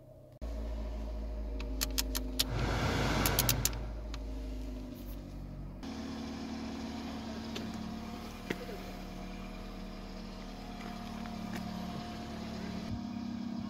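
Toyota Corolla Axio's 1.5-litre four-cylinder engine idling steadily. A few sharp clicks and a rustle of handling noise come about two to four seconds in, and one more click follows later.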